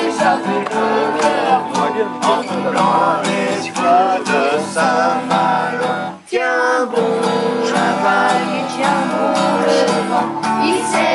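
Music led by strummed acoustic guitar with a melody line over it, briefly dropping out about six seconds in.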